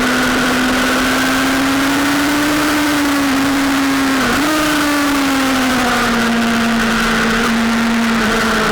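Sportbike engine running hard at steady high revs, with a constant rush of wind noise; its pitch dips briefly about four seconds in, then slowly falls.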